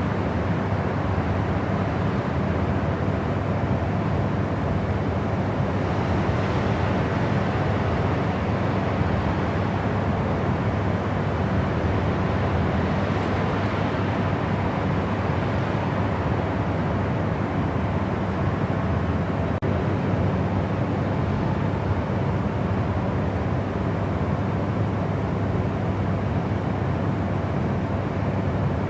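Steady white noise for sleep, a deep, even rushing sound weighted toward the low end, with no changes or breaks.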